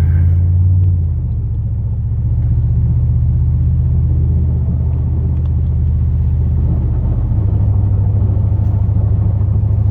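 2002 Chevrolet Silverado plow truck's 8.1-litre big-block V8 running under way, a steady low drone. Its note drops about a second in and shifts again around seven seconds in.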